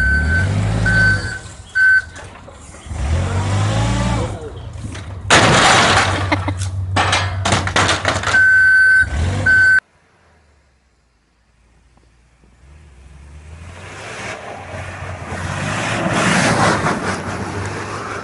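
Truck reversing alarm beeping about once a second over the engine, which revs up. Then comes a long loud stretch of noise and knocks, with one long beep near its end, before it cuts off. After a short quiet, a rush of noise swells and fades.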